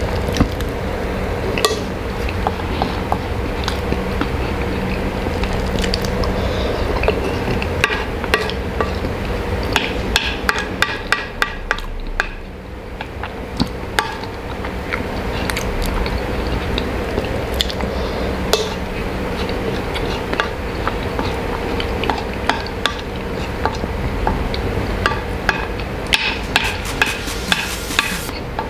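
Close-miked eating of mashed potato: wet chewing and mouth clicks, in rapid runs of ticks about a third of the way in and again near the end, with a wooden spoon scraping and tapping a ceramic plate. A steady low hum runs underneath.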